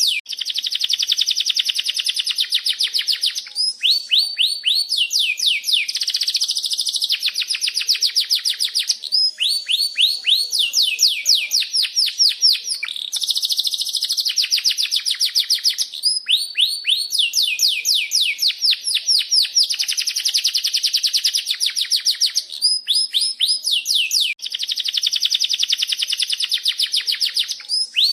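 Domestic canary singing a long, continuous rolling song: fast trills of rapid repeated down-slurred notes, switching to a new trill every few seconds with only brief breaks.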